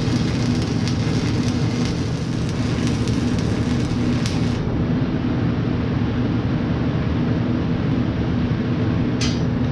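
Stick (arc) welding with a flux-coated electrode: the arc crackles evenly and stops about four and a half seconds in. A steady low hum carries on underneath, and a brief scratchy burst comes near the end, like a restrike of the rod.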